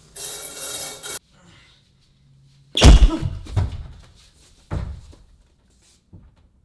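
A second of rushing, scraping noise, then a loud heavy crash about three seconds in, followed by two softer thuds.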